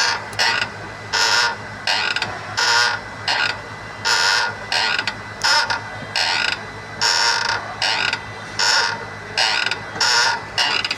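Renault Kwid clutch pedal pressed and released over and over, giving a short creaking, grinding noise on each stroke, about one every 0.7 seconds, over a steady low hum. The noise is tagged as clutch wear from the release bearing.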